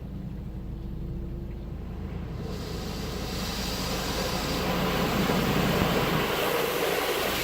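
Automatic car wash machinery heard from inside the car: a steady low hum, with a rushing noise of spray or air building up about a third of the way in and loudest a little past the middle.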